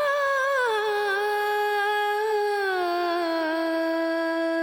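Background music: a single voice singing in Carnatic style, holding one long note that glides down in steps.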